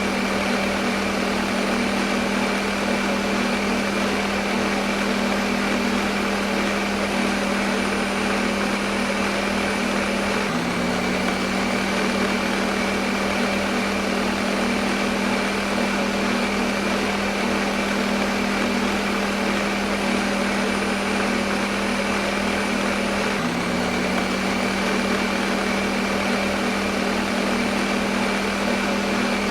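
Electric kitchen blender running continuously: a steady motor hum under a dense whirring noise with a thin high whine. The hum briefly hitches and recovers twice, about ten and twenty-three seconds in.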